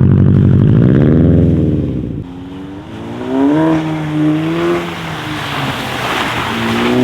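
Subaru WRX STI turbocharged flat-four running through an aftermarket cat-back exhaust, loud under hard throttle for about two seconds before the driver lifts off. After that the revs rise and fall unevenly, as when pulling away on snow.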